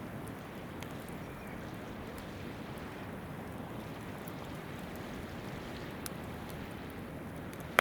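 A river babbling steadily, with a few small crackles from a wood campfire and one sharp, loud pop from the fire at the end.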